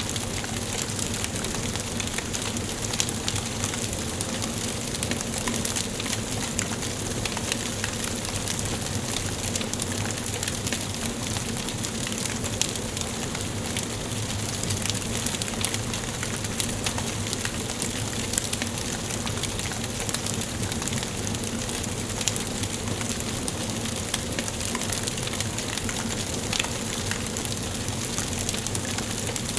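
Wood fire burning in a fireplace: a steady hiss with many small crackles and pops scattered throughout.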